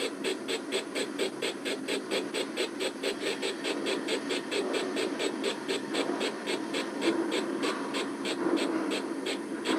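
Model steam locomotive with a sound decoder, chuffing steadily at about four beats a second over the hum of its running gear as it runs around its carriages.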